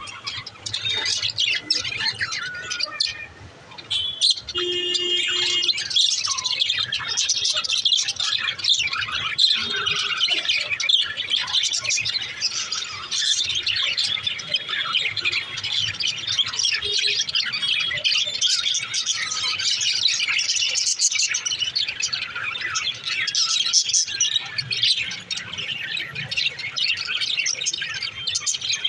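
Budgerigars chattering and warbling: a continuous, busy stream of quick chirps and squawks, with a short lull about three seconds in.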